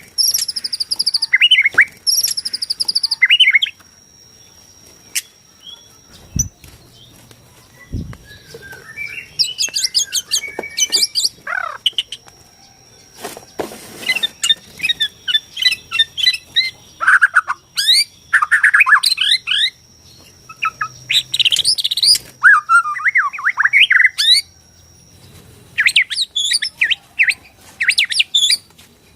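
White-rumped shama (Bornean murai batu) singing: loud, varied whistled phrases with fast trills and sweeps, broken by short pauses. Two soft low thumps come about six and eight seconds in.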